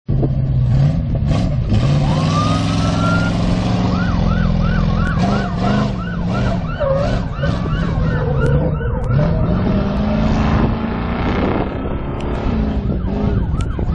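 Truck engine revving up and falling back under hard autocross driving, with tyres squealing: a rising squeal early on, then a rapid wavering series of squeals for several seconds in the middle.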